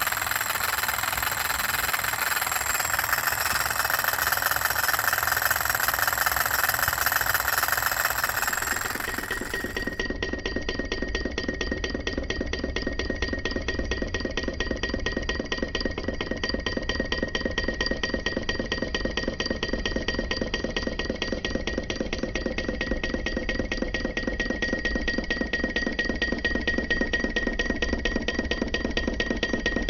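PM Research solar Stirling model engine running with a fast, even ticking clatter, with a steady high ring beneath it. For the first ten seconds or so the ticking is buried under a steady hiss.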